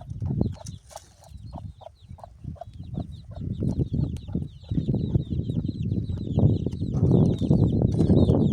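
Chickens: short clucks and a steady run of high, falling peeps like chicks, over scattered knocks and a rough rustling noise that grows louder about halfway through.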